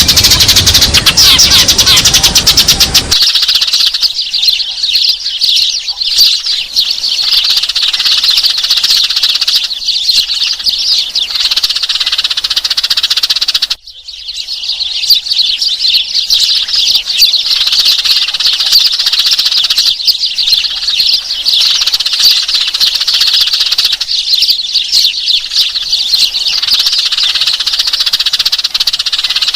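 Sparrows chirping in a dense, rapid chatter of many quick high chirps, a call recording of the kind played to lure sparrows into traps. The chirping breaks off briefly about fourteen seconds in, then resumes.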